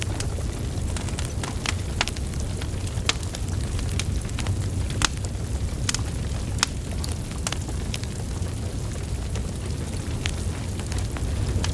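Wood fire burning, logs crackling with irregular sharp pops and snaps over a steady low rumble of flame.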